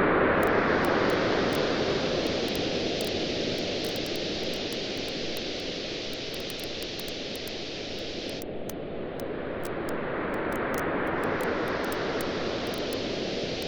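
Waves washing onto a beach: a surge loudest at the start that ebbs to a low around the middle and builds again near the end. Over it a wood campfire crackles with many small sharp pops throughout.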